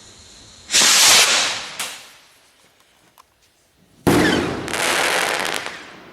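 Two fireworks going off, the first about a second in and the second about four seconds in. Each is a sudden loud bang followed by a second or two of fading, crackling noise.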